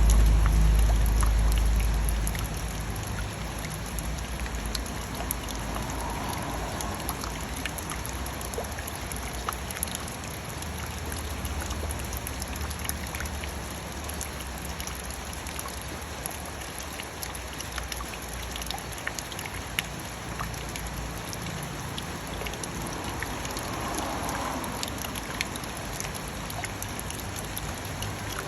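Steady rain falling, with single drops ticking sharply against a surface throughout. A low rumble sits under the rain for the first couple of seconds.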